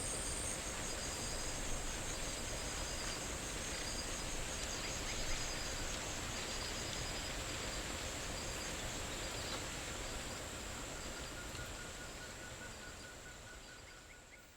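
Rainforest ambience of insects trilling: a steady high-pitched buzz with a shorter chirping call repeating every second or so, over a soft background hiss. It fades out in the last couple of seconds.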